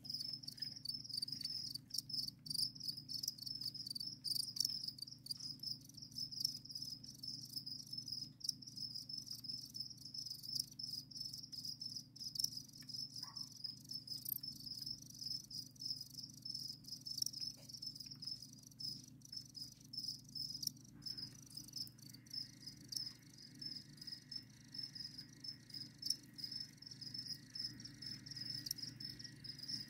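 Crickets chirping in a continuous high, pulsing trill, with scattered small clicks and a low steady hum underneath.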